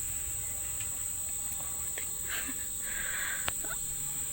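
Continuous high-pitched insect chorus, a steady shrill buzz, with a few faint rustles and a single sharp click about three and a half seconds in.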